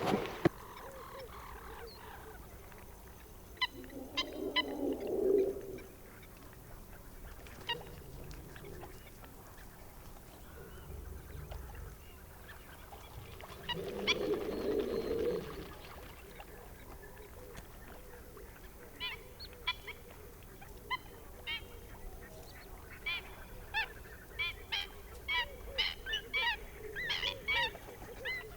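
Blue wildebeest herd grunting, scattered calls at first, then a rapid, overlapping run of short grunts through the last third.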